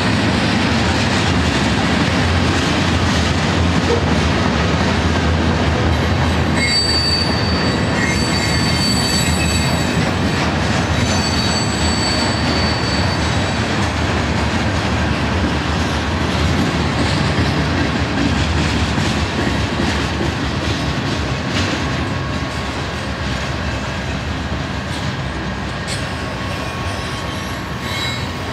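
Freight cars of a manifest train rolling past close by: a steady rumble of steel wheels on the rails, with thin high-pitched wheel squeal between about six and thirteen seconds in, growing a little quieter near the end.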